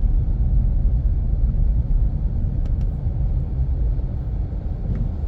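Steady low rumble of a car driving along, engine and tyre noise blended, from an Infiniti Q50 Red Sport 400 with its twin-turbo V6.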